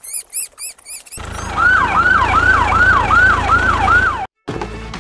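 A few quick, high-pitched squeaks, then a police siren sound effect: a fast, repeating falling yelp, about three sweeps a second, that cuts off suddenly shortly after four seconds.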